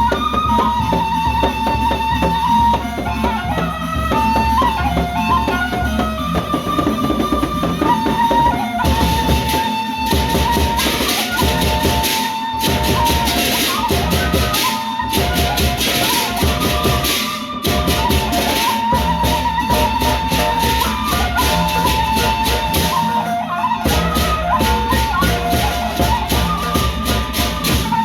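Lombok gendang beleq ensemble playing: large drums beating steadily underneath, cymbals clashing in a fast dense pattern that thickens about a third of the way in, and a wavering high melody line on top.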